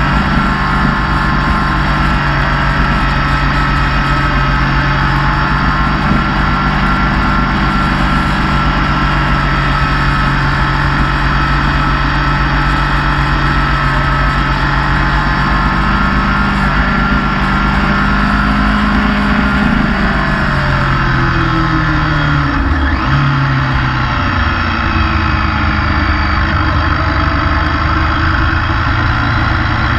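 Motorcycle engine running steadily, heard from on board the bike. About twenty seconds in, the engine note drops over a few seconds, then holds steady at a lower pitch.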